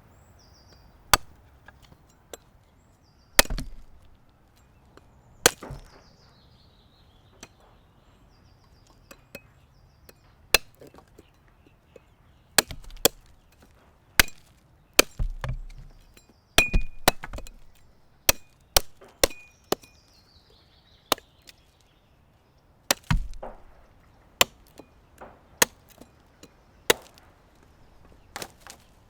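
Wood being chopped: about two dozen sharp, irregular knocks of a blade striking wood, sometimes two or three in quick succession. Birds give faint descending chirping calls a few times between the strokes.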